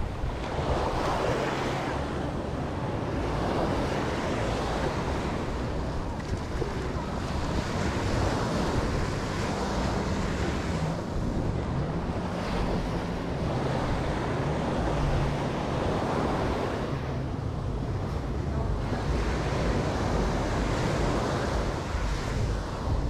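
Caribbean surf washing up the beach, the waves swelling and falling away every few seconds, with wind buffeting the microphone.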